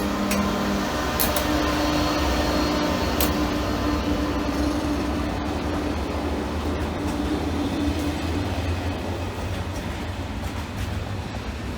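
Train at a station platform: a steady hum and a low rumble, with a few sharp clicks.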